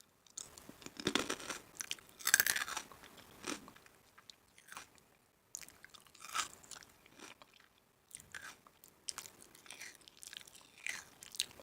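A person biting into and chewing crunchy food, with irregular crisp crunches, the loudest about two and a half seconds in.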